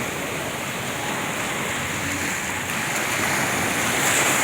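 Ocean surf washing onto the beach: a steady rush of breaking waves that swells slightly near the end.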